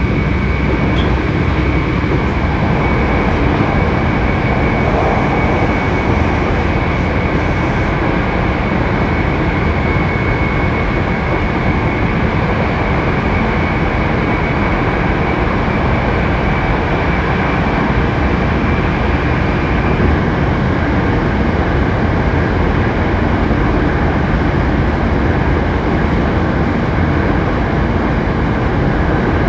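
Hankyu 7300 series electric train running at speed, heard from inside the car: steady rolling and wheel-on-rail noise with a high, steady whine that shifts slightly about two-thirds of the way through. This car, 7807, is known among enthusiasts for its unusual running noise.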